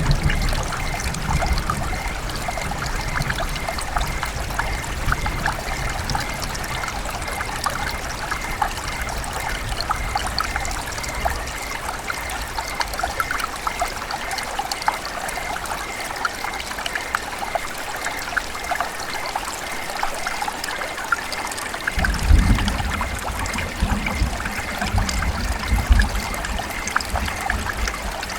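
River water running and trickling, a steady babble of many small splashes. A low rumble underneath dies away partway through and returns in heavier bumps near the end.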